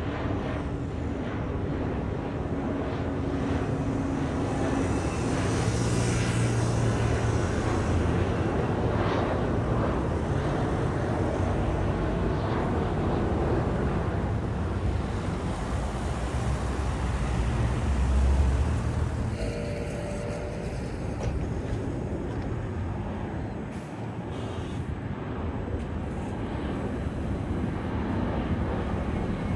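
Aircraft engines rumbling as a plane passes, swelling to their loudest about two-thirds of the way through and then easing, with wind buffeting the microphone.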